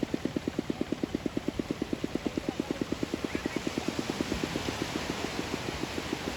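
An engine idling with a steady, even thump of about eight beats a second, growing a little fainter in the second half.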